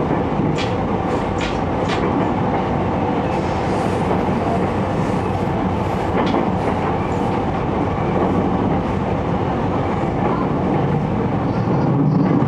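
Inside an E231-series electric commuter train running at speed: a steady rumble of wheels on the rails. A quick run of sharp clicks comes in the first two seconds and another click about six seconds in, the wheels passing over rail joints.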